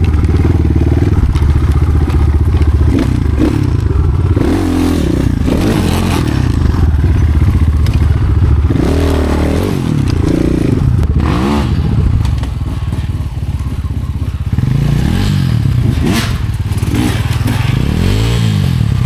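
Off-road motorcycle engine revving up and down over and over as it is ridden, with clattering and occasional knocks.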